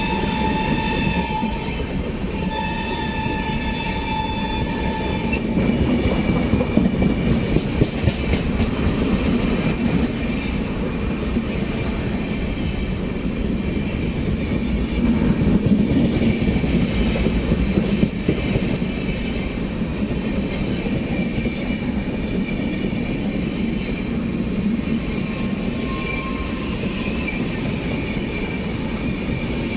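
Train horn sounding two blasts, the first ending about a second in and the second lasting about two seconds, then the steady rumble of a passing express train with wheels clattering over the rail joints.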